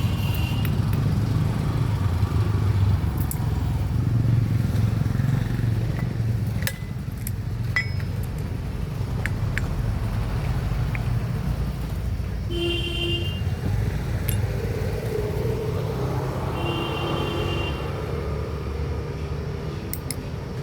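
Motorcycle engine running steadily, a dense low rumble. A vehicle horn sounds twice, briefly, in the second half.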